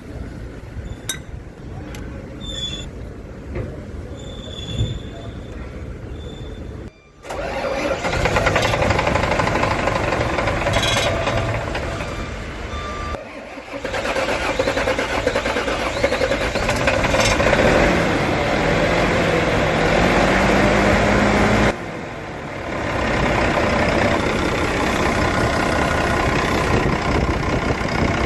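Six-cylinder diesel engine of a bus starting and running steadily after a fuel filter replacement. It is preceded by a few seconds of quieter clicking. The engine comes in loudly about seven seconds in and breaks off briefly twice.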